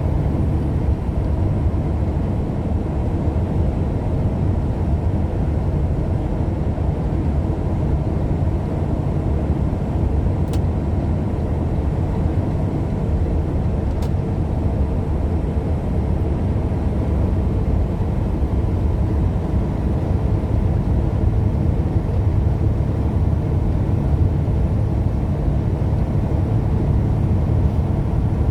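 Steady road and engine noise of a moving vehicle heard from inside the cabin, heaviest in the low end, with two faint clicks about ten and fourteen seconds in.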